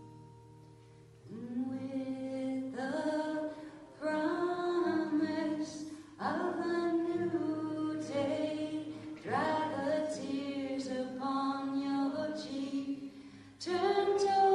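Music: a choir singing long held phrases, coming in about a second in after a quiet held chord.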